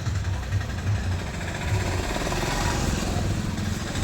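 A steady low engine rumble, as from a running vehicle, with a background of street noise.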